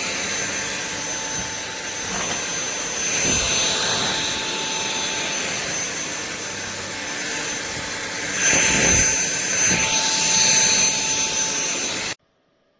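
Cordless stick vacuum running, a rush of air with a steady high whine, growing louder twice along the way, then cutting off abruptly near the end.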